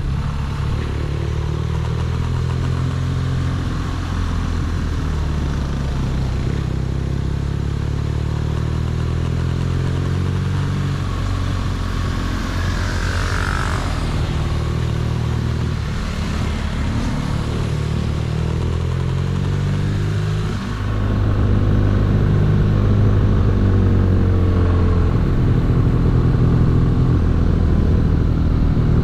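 BMW R nineT's boxer-twin engine running while riding, its pitch rising and falling with throttle and gear changes. A hissing noise swells and fades around the middle, and the engine gets louder about two-thirds of the way through.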